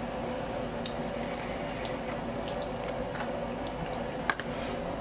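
Wet chewing and lip-smacking clicks of someone eating jokbal (braised pig's trotters), over a steady low hum, with one sharper click about four seconds in.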